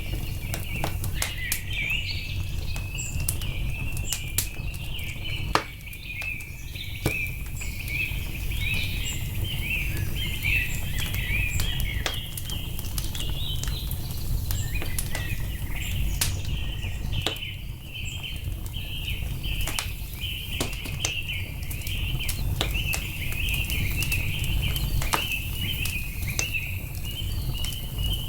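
Birds chirping continuously in a dense chorus over a crackling wood fire, with scattered sharp pops and a steady low rumble underneath; one pop about five seconds in stands out as louder.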